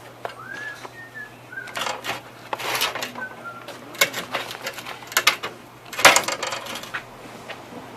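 Irregular sharp metallic clicks and clanks of hand tools and parts being handled on the cooler's refrigeration unit, the loudest knock about six seconds in, with a few faint high chirps.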